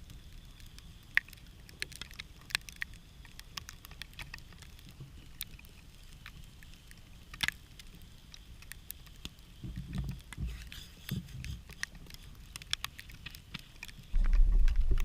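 Wood campfire crackling and popping, with sharp irregular snaps. A low rumble comes in briefly around the middle and strongly near the end.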